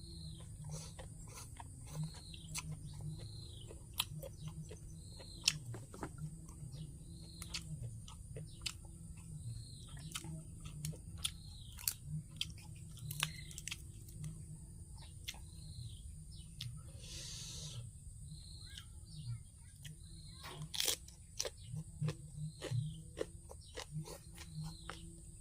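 Close-up eating: chewing and crunching food, with many short sharp clicks that grow busier and louder after about twenty seconds. A short high chirp repeats about once a second in the background.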